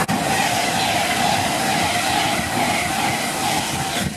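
A Class 390 Pendolino electric train passing close at speed: a steady rush of air and wheel noise with a steady hum running through it. The sound drops away suddenly near the end.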